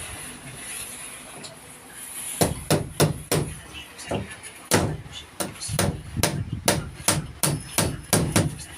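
Hammer driving a nail into wood: a quick run of about eighteen sharp blows, starting about two seconds in and going on until near the end.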